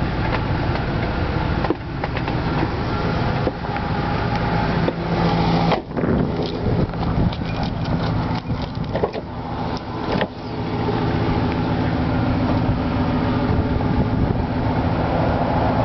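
Ford 5.4-litre 3-valve Triton V8 idling with a steady low hum, with a run of clicks and knocks in the middle.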